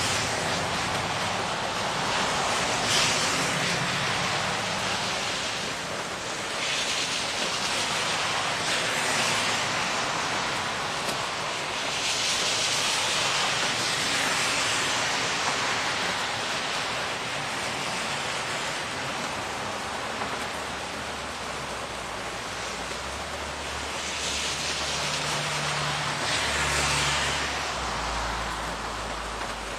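Steady rainfall, with cars passing on the wet street: the hiss of tyres on wet pavement swells and fades several times. A low rumble comes in near the end.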